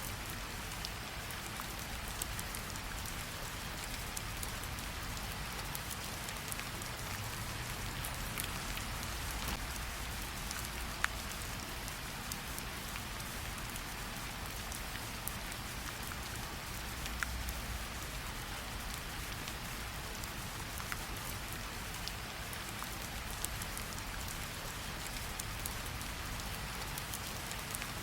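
Steady rainfall in a tropical forest, an even wash of rain noise with individual drop hits standing out here and there, one sharper hit about eleven seconds in.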